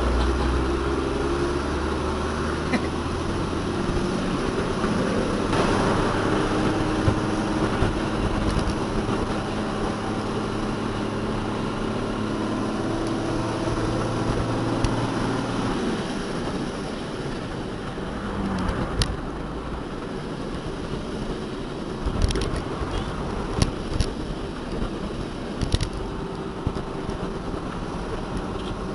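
Heavy diesel engine of construction equipment running, its note shifting through the first half and dropping away about 18 seconds in. Several sharp knocks follow in the second half.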